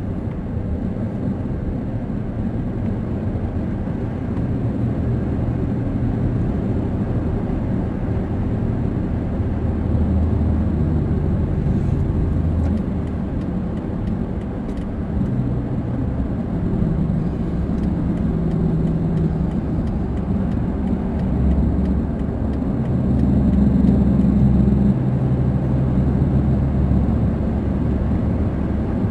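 Car interior noise while driving: a steady low engine and road rumble, with the engine's drone shifting in pitch as the speed changes in slow traffic.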